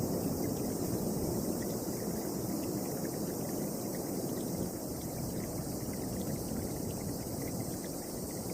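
Storm wind blowing steadily, a deep rushing noise with no let-up.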